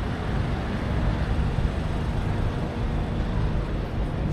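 Steady rumble of city traffic with a general street hum and no distinct single event.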